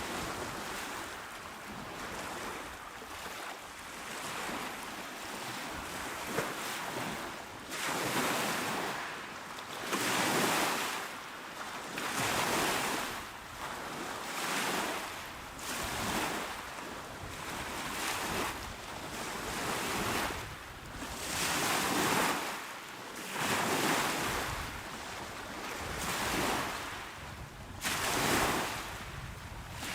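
Small waves washing onto a shore, one swell of surf every two seconds or so over a steady wash of water.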